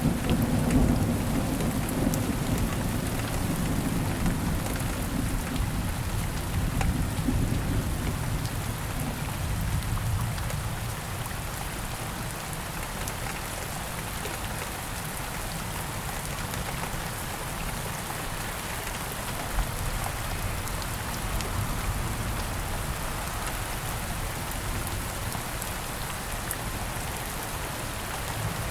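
Steady rain falling on the woods, with a low rumble of thunder that dies away over the first ten seconds or so.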